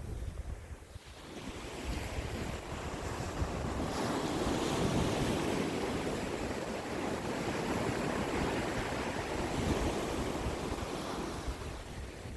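Sea waves surging in and washing up the shore: the wash swells after a quieter first second or so, stays full through the middle and eases off near the end, with wind rumbling on the microphone.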